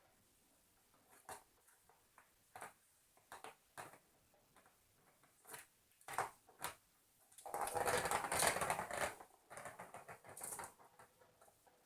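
Kittens batting at a plastic cat track ball toy: scattered light taps and clicks, then about a second and a half of dense rattling and clattering a little past halfway, fading into lighter clatter.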